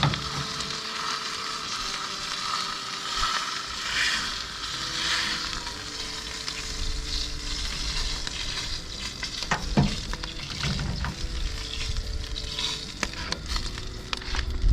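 Food sizzling and frying in a hot oiled pan, with a few sharp clicks of utensils against the pan and a low rumble from about halfway.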